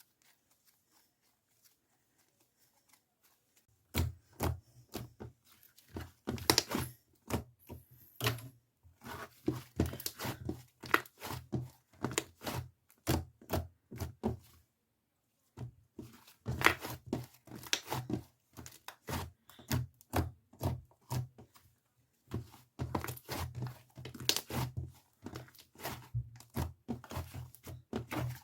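An irregular run of sharp clicks and light knocks, several a second, starting about four seconds in, with a brief pause midway.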